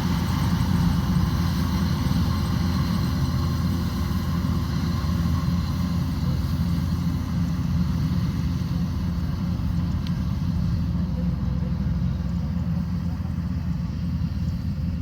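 Kubota combine harvester's diesel engine running steadily, with a constant low hum and mechanical noise.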